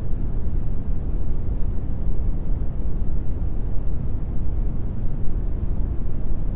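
Steady brown noise: an even, unbroken rushing hiss, heaviest in the low end and dull at the top.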